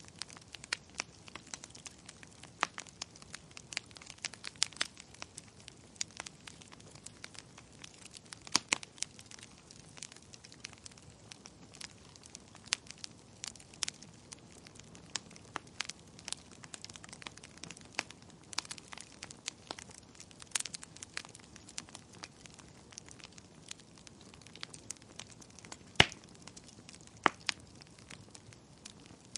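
Wood fire crackling, with irregular sharp pops and snaps over a low hiss; one pop near the end is louder than the rest.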